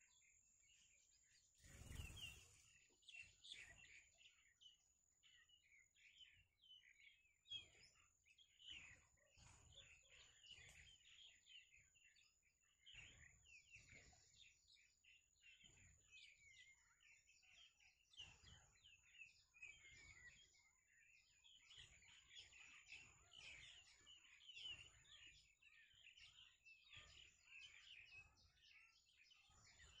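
Small birds chirping faintly and rapidly, a dense run of short high chirps that thickens in the second half. A soft thump comes about two seconds in, and a thin steady high tone runs under most of it.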